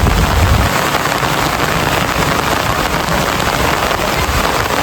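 A steady, loud rushing noise with no distinct events, like heavy rain or fast-running water, with a low rumble in the first second.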